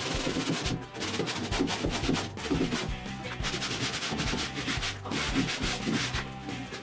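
Repeated sanding strokes on a surface, several a second, over background music.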